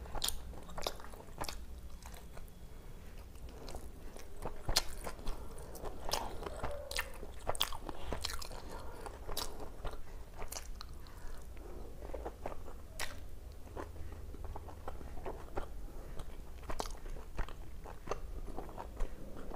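Close-miked chewing of food: irregular wet mouth clicks and crunches, several a second.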